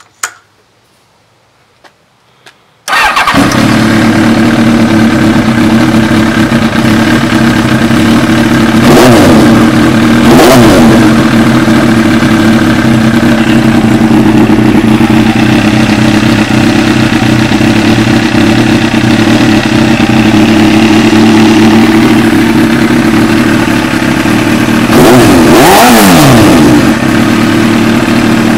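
Motorcycle engine starting about three seconds in and then idling through its exhaust, with two quick throttle blips a little later and another rev near the end, each rising and falling back to idle.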